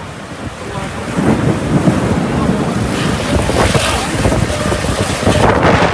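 Wind buffeting the microphone during a rainstorm, over a steady rushing noise that grows louder about a second in.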